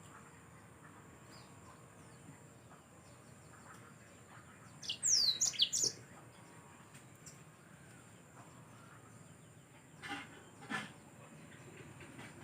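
Yellow-fronted canary (Mozambique canary) singing: a short burst of fast, steeply falling high notes about five seconds in, with faint chirps around it. Near the end come two brief sharp sounds.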